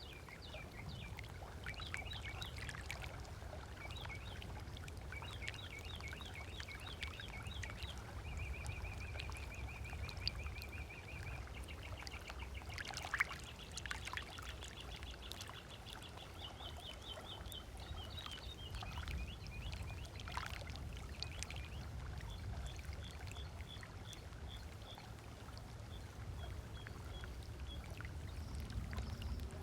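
Small waves lapping on a sandy lakeshore as a steady low wash, with birds calling in quick repeated chirps throughout, including a buzzy trill about eight seconds in and a fast run of notes a few seconds later.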